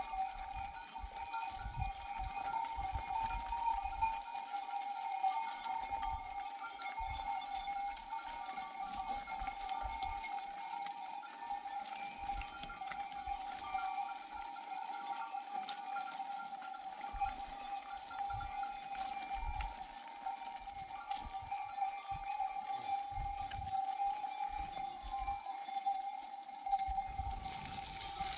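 Sheep bells on a moving flock, ringing and jangling together without a break. Scattered low rumbles lie underneath.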